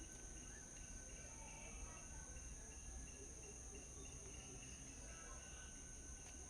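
Faint outdoor ambience: soft, short bird chirps repeating every few tenths of a second over a steady high-pitched drone and a low rumble.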